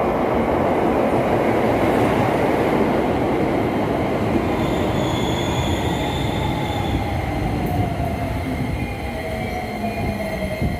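Electric commuter train running through the station with loud wheel and running noise. A motor whine falls steadily in pitch as the train slows, and a faint high squeal comes in the middle.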